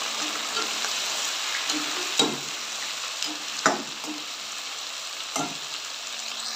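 Chicken pieces sizzling as they fry in hot oil in a metal pot, stirred with a metal spoon that knocks sharply against the pot three times.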